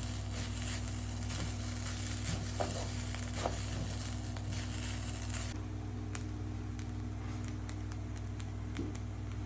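Food frying in hot oil, sizzling and crackling; about halfway through the sizzle drops away, leaving scattered crackles over a steady low hum.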